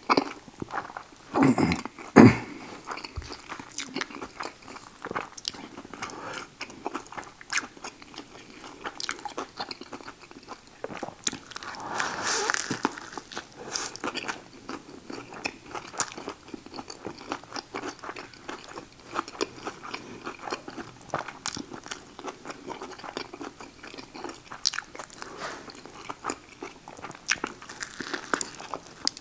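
Close-up chewing and biting of a Subway Buffalo Chicken sandwich: wet mouth clicks and crunching of the lettuce and raw vegetables. The loudest crunches come about two seconds in.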